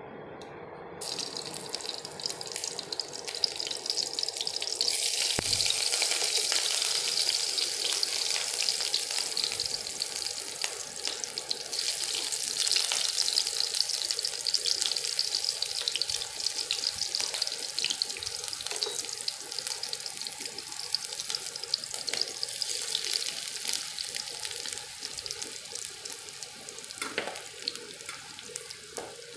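Hot oil sizzling in a wok as chopped vegetables fry: a steady hiss that jumps up about five seconds in, with scattered faint clicks.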